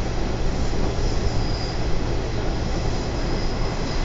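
Watarase Keikoku Railway trolley train running along the line, heard from inside the car: a steady rumble of wheels on rail.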